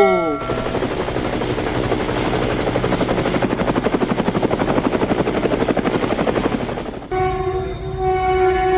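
Helicopter rotor sound: a fast, even chopping for about seven seconds. It then cuts over to a steady horn sounding on one held chord, a train horn.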